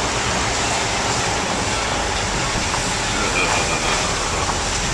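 Steady rushing noise of a car driving along a flooded road, its tyres running through standing water.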